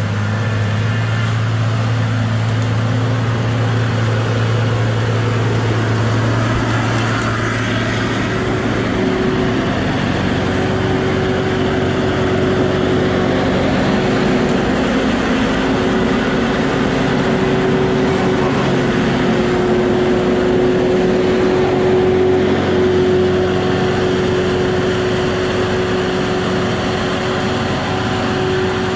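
Heavy logging machine's diesel engine running steadily under work. About nine seconds in, a strong low hum drops away and a higher steady whine takes over.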